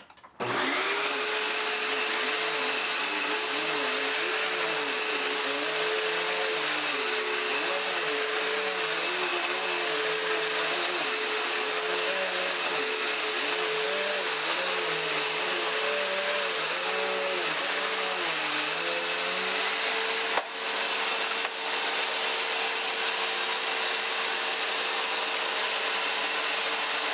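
Dirt Devil Swivel Glide upright vacuum cleaner switched on and running, its hum wavering up and down for most of the time and then holding steady. Two sharp knocks come about two-thirds of the way through.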